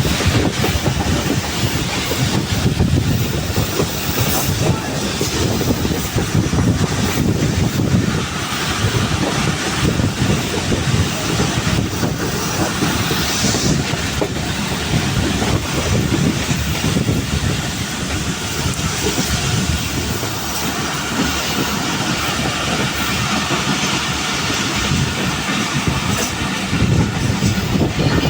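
Pakistan Railways passenger train running along the line, wheels clattering over the rail joints with a steady rumble.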